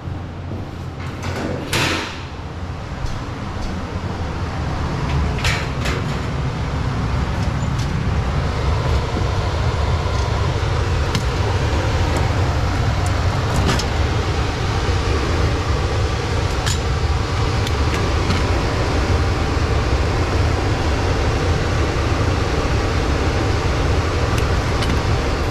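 Air-conditioning condenser unit running steadily while its coil is sprayed and washed, a low rumble under a steady rush of spray that builds over the first several seconds and then holds, with a few scattered clicks.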